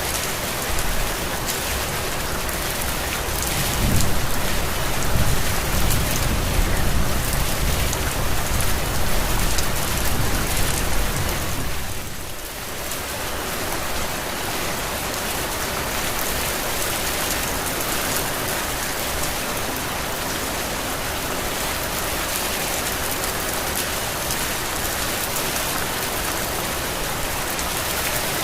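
Heavy rain falling steadily, a dense even hiss. A low rumble swells in for several seconds in the first half and dies away before the middle, with a brief drop in level just after.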